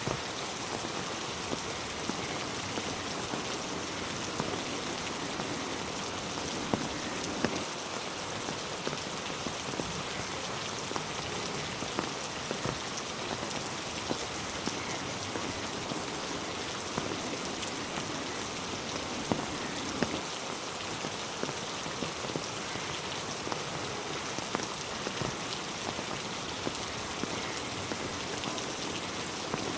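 Steady heavy rain falling on a road and trees, a dense even hiss with scattered louder drops striking close by.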